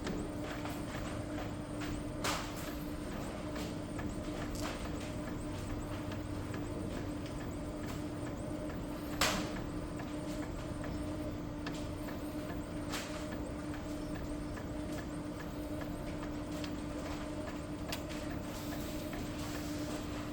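Epson L3256 inkjet printer printing a high-quality test page: the print-head carriage shuttles back and forth over a steady motor hum, with sharp clicks about two seconds in and again about nine seconds in.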